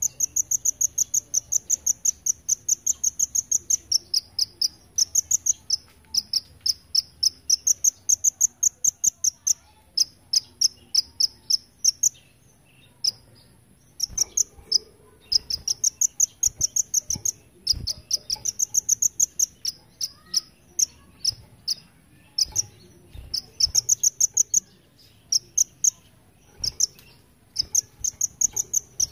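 Kolibri ninja (a sunbird) singing its insect-like 'belalang emas' imitation: rapid, high-pitched pulsed trills in phrases of one to two seconds, repeated with short gaps, sounding like a grasshopper or cricket.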